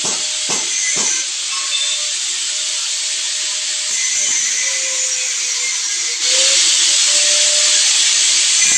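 High-pressure water spray from a power sprayer, hissing steadily with a faint wavering motor whine under it. A few knocks come in the first second, and the spray suddenly gets louder about six seconds in.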